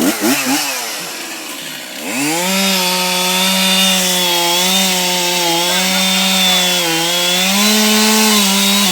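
Two-stroke chainsaw revving up about two seconds in and held at full throttle, cutting wood, its pitch sagging slightly now and then under load.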